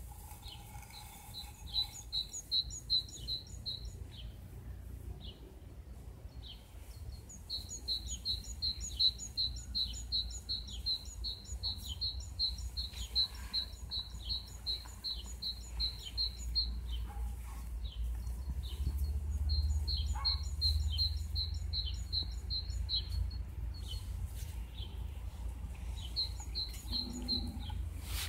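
A songbird singing runs of short, high chirps repeated evenly several times a second, each run lasting a few seconds, with pauses between.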